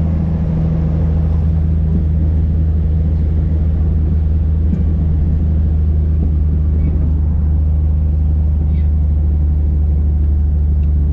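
Light aircraft's piston engine and propeller droning steadily at an even pitch, heard from inside the cockpit.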